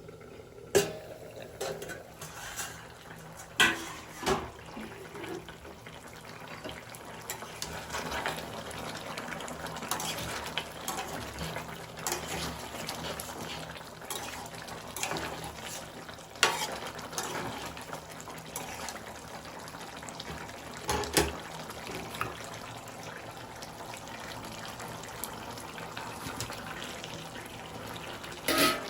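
Mutton curry cooking in a metal pot with a steady hiss. A stirring spatula knocks sharply against the pot about six times.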